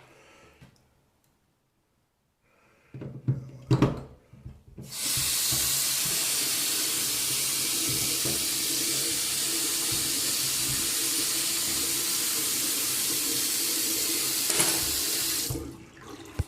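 Single-handle bathroom sink faucet turned on and running a steady stream into the basin for about ten seconds, then shut off abruptly, a test run of the freshly repaired faucet. A couple of short knocks come shortly before the water starts.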